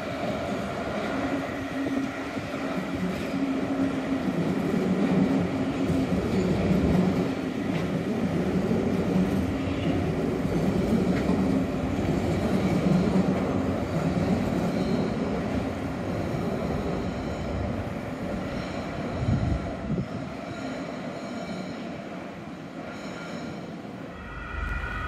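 Hamburg S-Bahn electric multiple unit running past along the station tracks: wheel-on-rail noise with a steady electric motor hum. It grows louder through the middle and fades away near the end.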